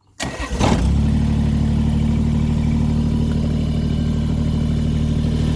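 Tractor engine coming on suddenly about a quarter second in, with a brief rough burst, then settling into a steady low idle.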